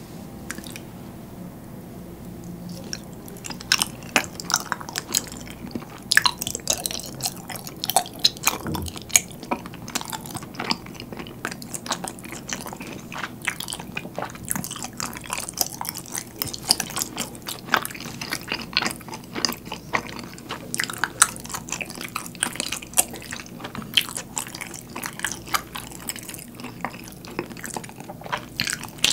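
Close-miked chewing of chewy glutinous-rice dango coated in thick sweet soy sauce: wet mouth sounds with many sharp clicks and smacks, which begin thickly about four seconds in.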